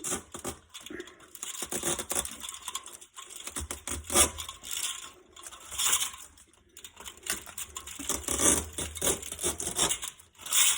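Thin aluminum fins of an air-conditioner condenser coil being torn down off the copper tubing by hand after being scored with a knife, giving an uneven series of crinkling, scraping metal bursts.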